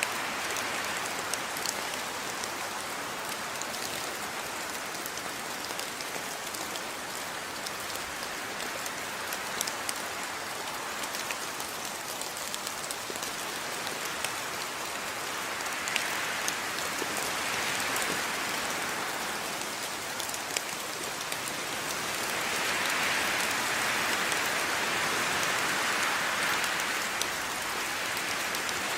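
Steady rain falling, with sharp ticks of single drops striking a surface scattered through it. The rain swells louder about midway through and again for several seconds near the end.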